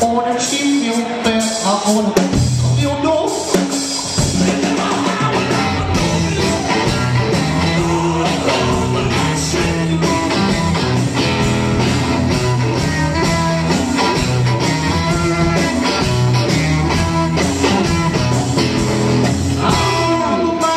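Live blues-rockabilly band playing, with electric guitar, drums and a singer's voice; the band gets fuller about four seconds in.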